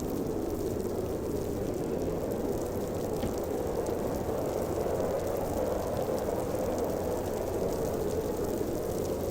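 Snowstorm wind howling steadily, a dense low rush of noise that swells and eases only slightly.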